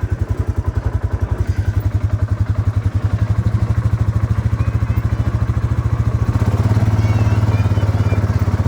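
Polaris Sportsman 570 ATV's single-cylinder engine running at low revs with an even, rapid pulse, growing a little louder after about six seconds.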